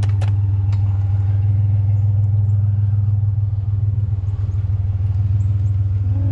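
Pickup truck engine idling steadily, a constant low hum, with a few sharp clicks in the first second.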